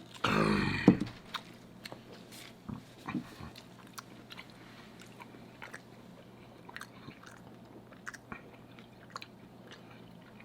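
Close-miked eating of lobster and crab: chewing with scattered small clicks and crunches throughout. In the first second there is a brief, louder vocal sound that falls in pitch.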